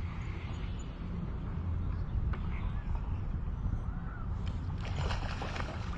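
Outdoor ambience on open water: a steady low rumble, a few faint bird calls, and a brief burst of splashing about five seconds in.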